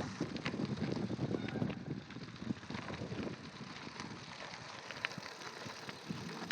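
Bicycle being ridden: tyres rolling with scattered small clicks and rattles, under unsteady rumbling wind noise on the microphone.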